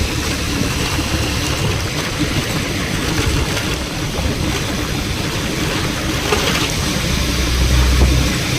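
Wind rushing over the microphone and road noise from a moving vehicle, with a low engine rumble that grows louder near the end.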